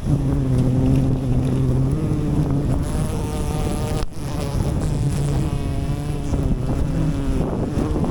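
Honeybees buzzing close to the microphone: a humming drone whose pitch wavers, over rumbling wind noise, with a brief break about four seconds in.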